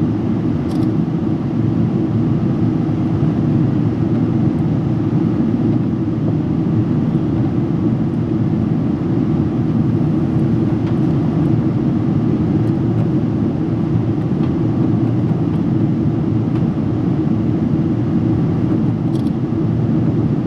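Steady cabin noise inside a Boeing 777-300 airliner in flight: a constant low rush of engines and airflow, with a couple of faint ticks.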